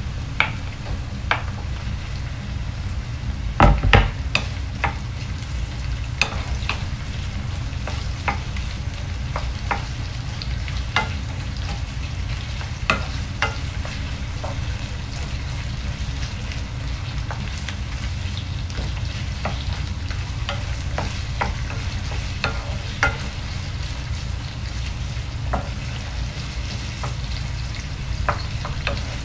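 Sliced onion and ginger frying in oil in a pan, stirred with a wooden spoon that clicks and scrapes against the pan now and then, with one louder knock about four seconds in.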